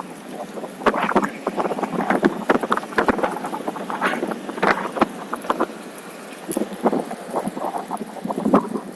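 OneWheel electric board's tyre rolling along a trail, a continual irregular patter of crunches and clicks from the ground under it.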